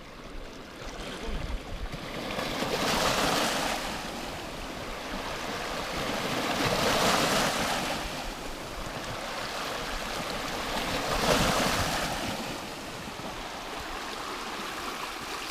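Sea waves washing, swelling and falling back three times about four seconds apart.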